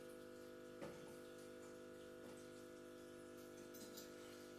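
Near silence: room tone with a faint steady hum and a soft tap about a second in.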